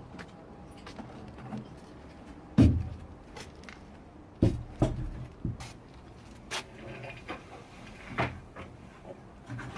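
Irregular knocks and thuds of digging work, tools and stones being handled, spaced a second or more apart; the loudest comes about two and a half seconds in.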